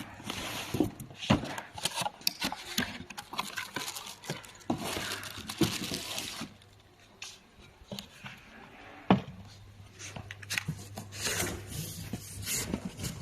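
Packaging and a solar flood light being handled during unboxing: irregular rustling and scraping with many sharp clicks and knocks, a longer rustle a few seconds in and a loud knock about two-thirds of the way through.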